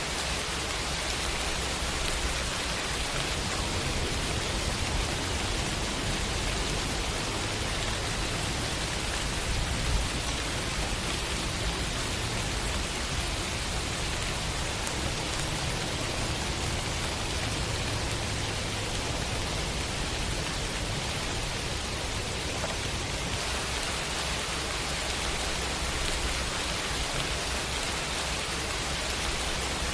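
Steady rain falling, an even hiss without pause, with one brief louder tap about a third of the way in.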